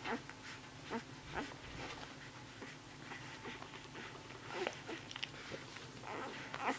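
Newborn Bernese Mountain Dog puppies squeaking and whimpering in short, scattered high calls.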